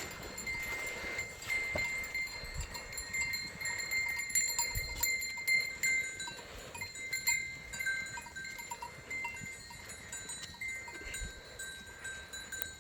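Bells on grazing sheep ringing and clinking irregularly as the flock moves, with a light, continuous jingle of several small bells.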